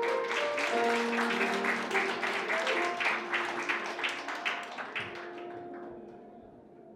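Audience applause over soft background music with long held notes; the clapping fades out about five and a half seconds in, leaving the music.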